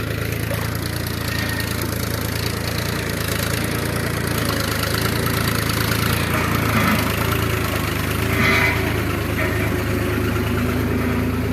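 Diesel engine of a tractor or backhoe running steadily, with a brief louder moment about eight and a half seconds in.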